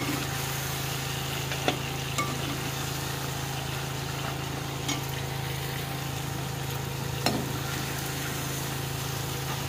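Green chillies shallow-frying in hot oil in a metal pot, sizzling steadily, with a few sharp clinks of the metal spoon against the pot as the chillies are lifted out. A steady low hum runs underneath.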